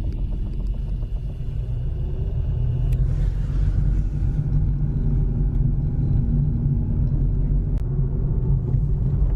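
Steady low rumble of a car being driven, with the road and engine noise heard from inside the cabin.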